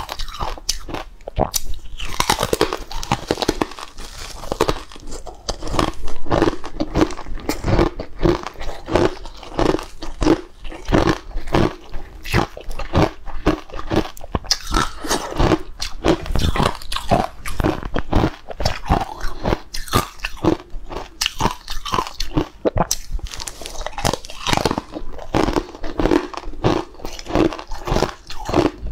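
Close-miked biting and chewing of dry, crumbly green powdery blocks: a steady run of sharp crunches.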